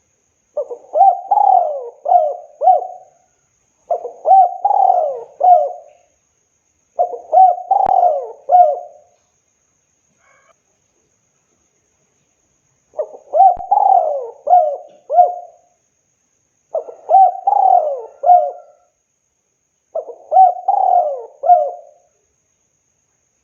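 Spotted dove (tekukur) cooing: six phrases of several quick coos each, every phrase about two seconds long, with a pause of about four seconds after the third phrase.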